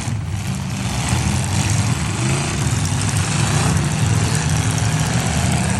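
Demolition derby trucks' engines running steadily, a low, loud engine din with no clear crashes.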